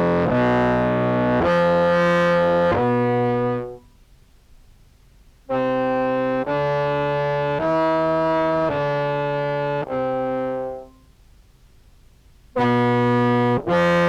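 Contrabass clarinet through an octave pedal set to mix lower and upper octaves, feeding a fuzz: three phrases of held, buzzy notes that step from pitch to pitch, with short pauses between them. A voice two octaves up is heard in the mix.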